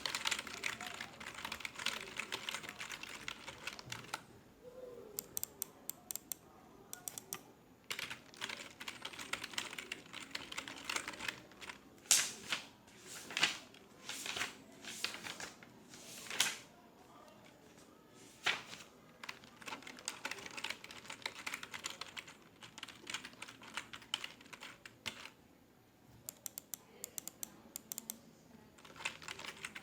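Typing on a computer keyboard in bursts of rapid key clicks with short pauses between. In the middle comes a run of louder single strokes a second or so apart.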